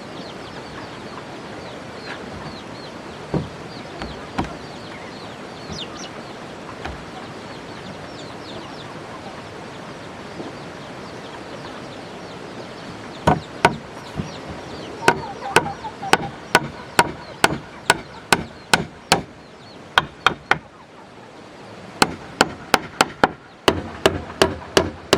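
Steady background with faint bird calls, then about halfway through a run of sharp strikes on wood, about two a second, with a short break near the end.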